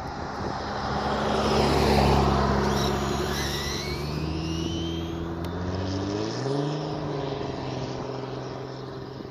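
A truck engine running, with a loud rush of noise about two seconds in and its pitch rising around six seconds in. Over it, the thin rising whine of a Traxxas Rustler RC truck's brushless Velineon motor accelerating hard.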